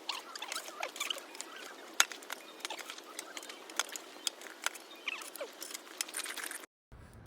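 Wood fire crackling, with irregular sharp pops and brief thin squeaks; it cuts off suddenly near the end.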